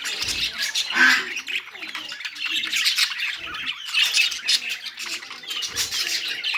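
Bird squawking in harsh, densely packed calls that go on without a break, loudest about a second in.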